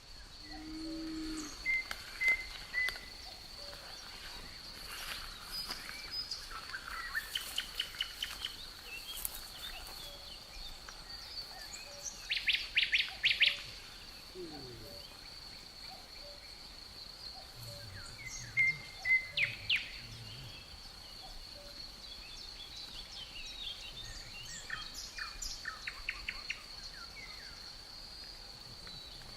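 Birds calling in short bursts of quick repeated notes, several times over, above a steady high-pitched insect drone.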